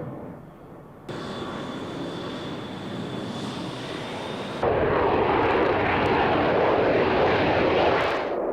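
Jet aircraft engine noise in edited segments: a steady engine sound with a thin high whine from about a second in, then an abrupt switch about halfway to a louder, broader rushing jet noise that eases slightly near the end.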